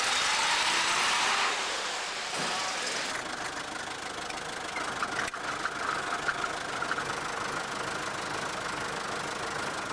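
Car engine running, heard from inside the car's cabin, with a loud hiss over it for the first second and a half.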